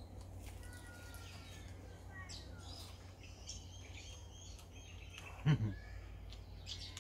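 Birds chirping and calling in short whistled phrases over a steady low rumble. About five and a half seconds in there is one brief low vocal sound from a man.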